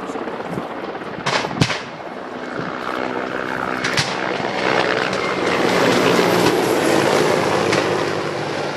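Military helicopter flying nearby, its rotor and engine noise swelling louder in the second half. There are sharp cracks of gunfire about a second and a half in and again at about four seconds.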